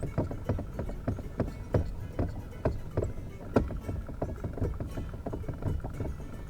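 Small waves lapping and slapping against a boat hull: an irregular run of soft knocks and splashes, two or three a second.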